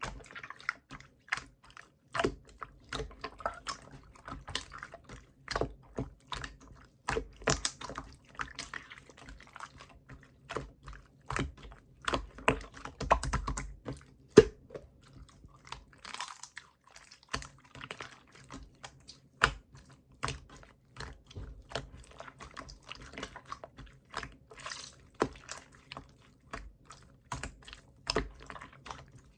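Clear slime being pressed and squished by hand, giving a dense, irregular run of sticky clicks and pops.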